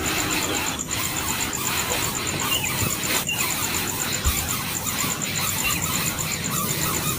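Outdoor ambience: an insect's high, rapid, evenly pulsed chirping runs throughout, with scattered short bird chirps over a steady background hiss.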